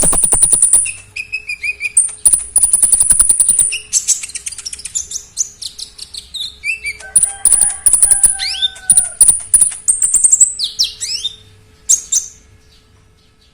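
A konin songbird singing a loud, rapid, varied song. High buzzy trills and dry rattles alternate with sharp whistled notes that slide up and down, typical of a well-conditioned bird singing 'full isian' with mimicked phrases. The song stops near the end.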